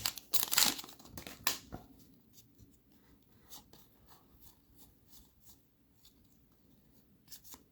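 Plastic wrapper of a trading-card pack crinkling as it is opened, for the first couple of seconds. Then a few faint scattered taps and slides as the cards are handled.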